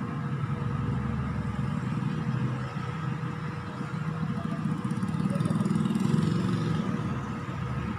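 A steady low motor or engine rumble with a faint steady hum over it, swelling slightly about six seconds in.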